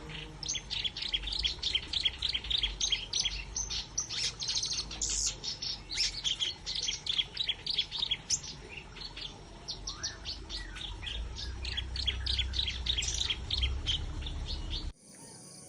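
Small birds chirping busily, many short high notes overlapping several times a second, over a low rumble; the sound cuts off abruptly near the end.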